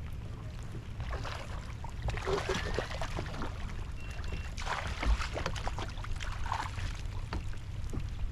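Steady low rumble of wind on the microphone, with irregular water sloshing and splashing around a fishing boat.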